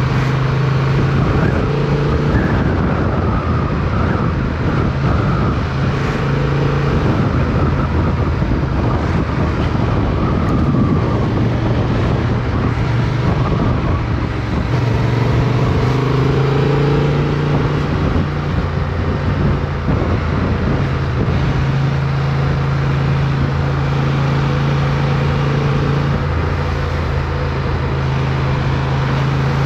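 Motorcycle engine running steadily under way, picked up by a bike-mounted camera, its note shifting now and then as the throttle changes. In the first half, wind and road noise rush over it for stretches.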